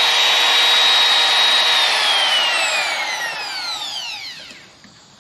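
Electric router running at full speed with a high steady whine, then switched off about two seconds in, its pitch falling as the bit spins down until it fades out near the end.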